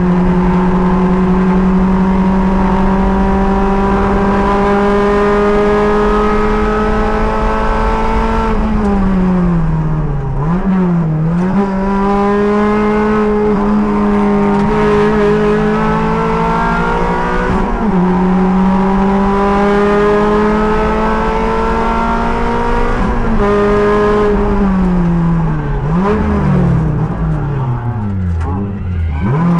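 Race car engine heard from inside the cockpit, pulling hard with its pitch climbing slowly for about eight seconds, then falling away with braking and downshifts. It accelerates again with quick gear changes, and near the end drops through several downshifts before climbing once more.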